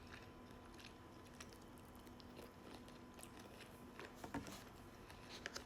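Faint chewing of a mouthful of hibachi shrimp, with soft scattered mouth clicks, a few of them a little louder about four seconds in.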